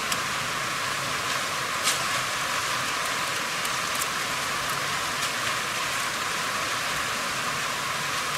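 Steady hiss of rain, with a few short sharp ticks scattered through it.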